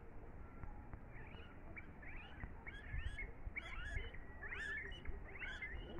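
Small birds chirping: a quick run of short rising-and-falling calls that starts about a second in and grows busier.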